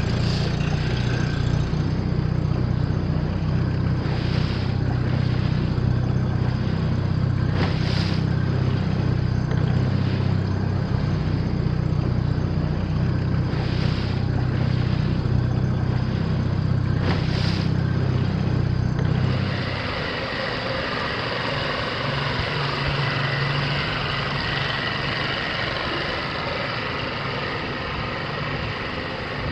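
Motorboat engine running steadily at low, no-wake speed. About two-thirds of the way in its low hum drops away and it runs on more quietly.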